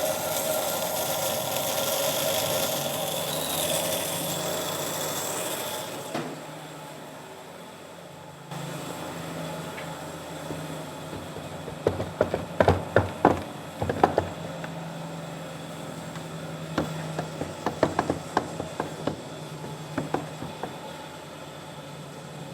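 Woodworking sounds: a steady rasping hiss of a tool working wood for about six seconds, then, after a pause, several clusters of sharp wooden knocks and clatter as boards of the table base are handled and set down.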